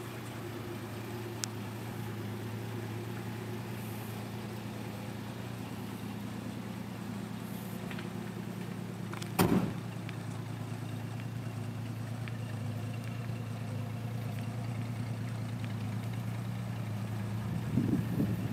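Plymouth Valiant Signet's engine idling steadily, with a single thump about halfway through.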